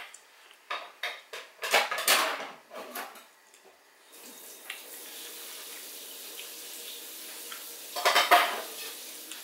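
Close-miked eating sounds: crunching and chewing of fried salted fish and squid eaten by hand, with clicks of food being handled on a stone plate. Loud crackly crunches cluster about one to three seconds in and again near the end, over a faint steady hiss that sets in about four seconds in.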